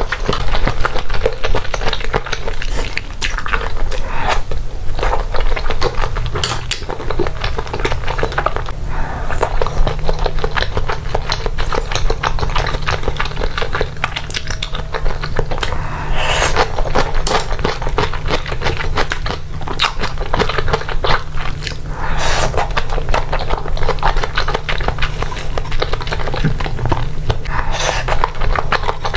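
Close-up eating sounds: a person biting and chewing food pulled off bamboo skewers, a dense run of wet crackly clicks with louder bursts every few seconds.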